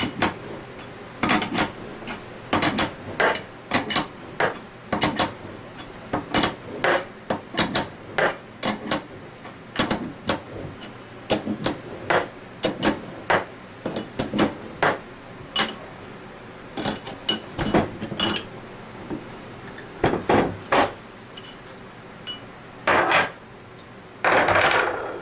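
A hammer tapping on metal scroll-pump parts: many sharp strikes, roughly one or two a second, with short pauses, during removal of the pump's bearings. A brief rushing noise comes just before the end.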